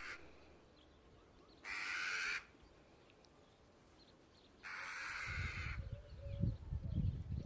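A bird gives two harsh, rasping calls about three seconds apart, each under a second long. A low rumble sets in with the second call and is the loudest sound near the end.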